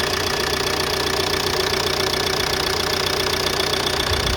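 Ford Mondeo mk4's 1.8 TDCi four-cylinder diesel engine idling steadily, running nicely on a freshly fitted set of four refurbished injectors.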